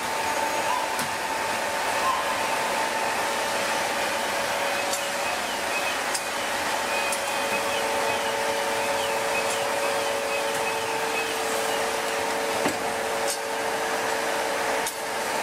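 Steady roaring hiss of a large open heat-treatment furnace and its blowers, with a steady two-tone machine whine, while the furnace's car bottom is drawn out carrying a red-hot forging. A few faint squeaks and clicks come midway.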